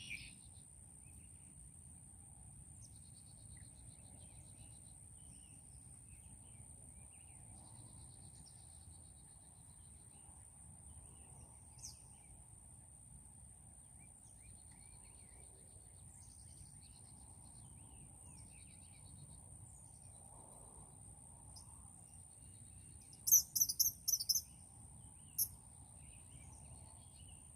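Outdoor ambience of small birds chirping, soft and scattered, over a low steady rumble and a constant thin high tone. Near the end a quick cluster of much louder, sharp high chirps stands out, and one more follows a couple of seconds later.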